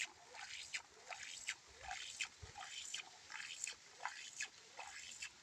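Faint water drips and small plops, two or three a second, each a short plink that sweeps quickly in pitch.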